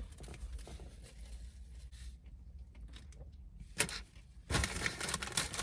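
Eating and handling noises from a sandwich and its paper wrapper: faint rustling, a sharp click nearly four seconds in, then about a second and a half of louder crinkling near the end.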